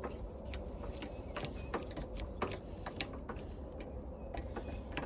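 Quarter-inch socket ratchet clicking irregularly as screws are turned out of the washing machine's sheet metal.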